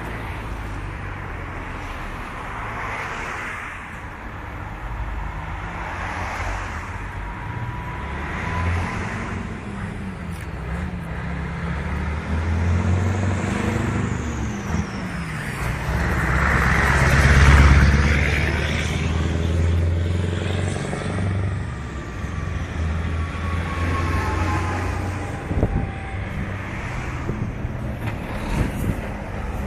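Scania 143 420 truck's V8 diesel engine running under load, its note rising and dropping several times. It grows louder to a peak about two-thirds of the way through, then eases off.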